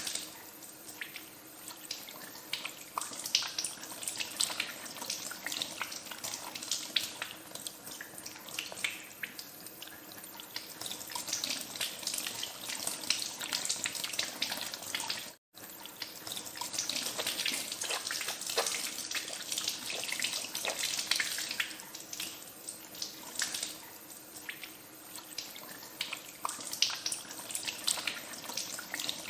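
Tap water running into a sink while hands are washed under it, with irregular small splashes over a steady hiss. The sound drops out for an instant about halfway through.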